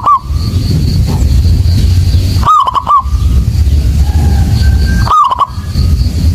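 Zebra dove (perkutut) cooing: a short phrase of quick, looping coo notes, repeated about every two and a half seconds, over a steady low rumble.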